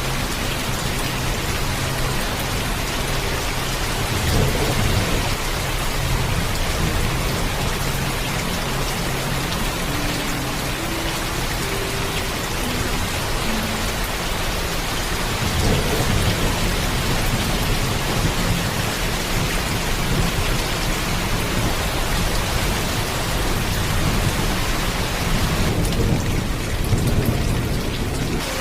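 Heavy, steady rainfall with low rolls of thunder rumbling several times: about four seconds in, around the middle and again near the end.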